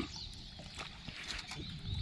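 Birds singing in the background: short high chirping phrases repeated again and again, with a few faint clicks and a low hum of background noise under them.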